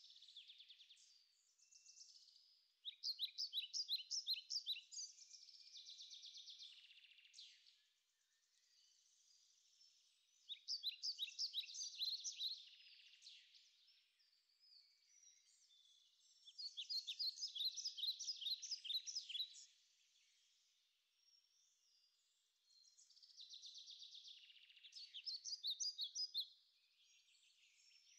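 Faint bird song: bouts of rapid, high chirps lasting two to three seconds, repeated every several seconds with short pauses between.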